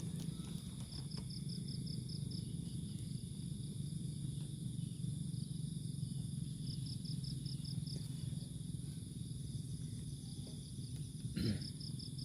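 Insects calling: a steady high trill with a cricket-like chirp of about seven quick pulses in a second, repeating three times, over a low steady hum. A single short click near the end.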